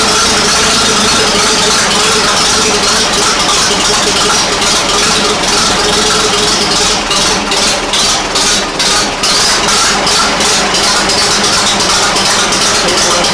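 A 1940 Fordson N tractor's four-cylinder engine running steadily with a loud mechanical rattle.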